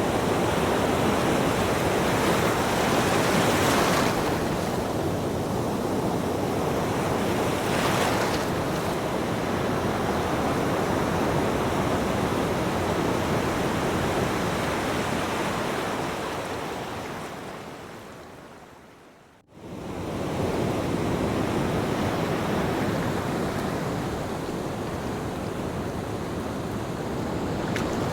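Ocean waves: a steady surf wash that swells and ebbs. About two-thirds of the way in, it fades down to almost nothing and snaps straight back, like the seam of a looped recording.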